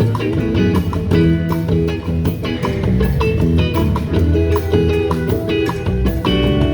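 A band playing an instrumental passage: guitar over bass and a steady drum beat.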